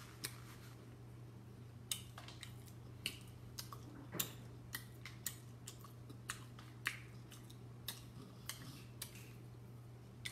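A person chewing fried conch fritters close to the microphone: a string of sharp mouth clicks and smacks, irregular, about one or two a second, over a steady low hum.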